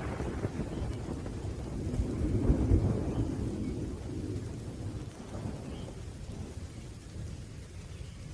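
Thunder rumbling over steady rain. The rumble swells about two to three seconds in, then dies away.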